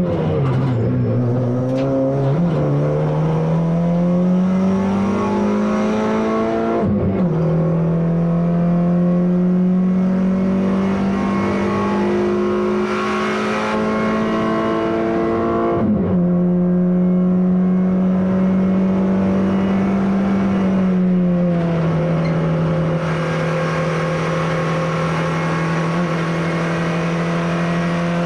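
Citroën C2 VTS's 1.6-litre four-cylinder engine heard from inside the stripped, roll-caged cabin, accelerating hard under racing load. The revs climb steadily and drop sharply at two upshifts, one about a quarter of the way in and one a little past halfway, then hold fairly steady with a slight dip later on.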